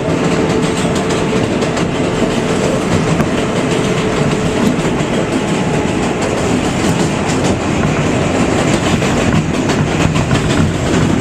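New York City Subway 7 express train running at speed: a steady rumble of wheels on rail with rapid clicks from the track. A steady tone fades out about five seconds in.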